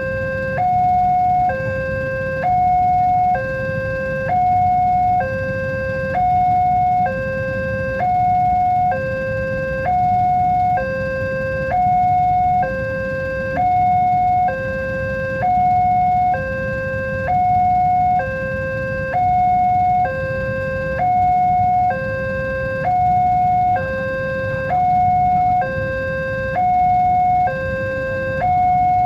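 Electronic level-crossing warning alarm sounding steadily as two pitched tones that alternate about once a second, the higher tone louder. A steady low rumble runs underneath.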